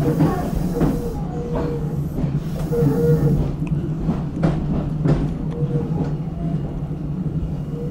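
Tobu 10030 series electric train running, heard from inside the leading car: a steady low hum with a wavering higher tone, and wheels clicking over rail joints at short, fairly even intervals.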